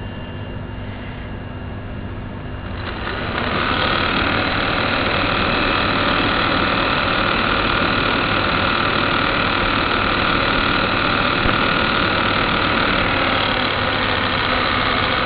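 Air conditioner running with a steady low hum. About three seconds in it grows louder over about a second, then runs steadily at the higher level.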